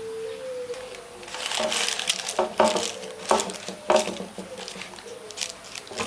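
Handling sounds in a kitchen: a crinkling rustle about a second in, then a run of short, sharp clicks and knocks at uneven spacing.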